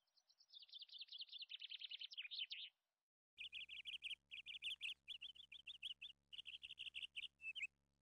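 A bird chirping in fast, high runs: a first run that slides slightly lower in pitch, then after a short pause a string of brief chirp runs.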